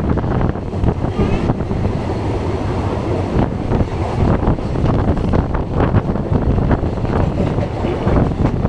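Third-class passenger train running along the track, heard from on board: a steady low rumble with wind rushing past, and a few sharp clacks.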